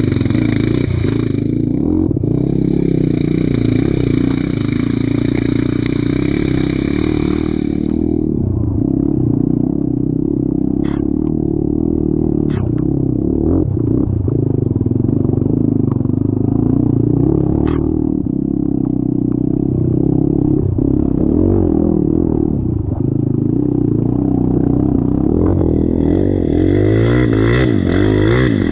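Off-road vehicle engine running and revving under load, with a few sharp clattering knocks.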